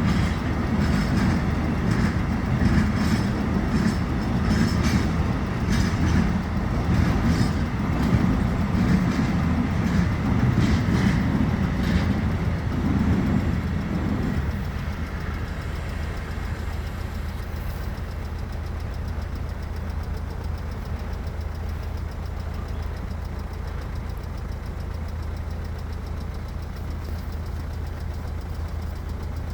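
A passing train, its wheels clattering over rail joints, which fades out about halfway through. A steady low engine idle then carries on.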